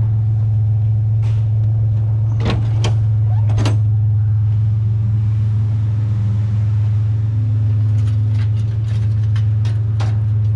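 Truck engine and road noise heard from inside the cab while driving, a steady low drone. A few short sharp knocks or rattles come through about two to four seconds in and again near the end.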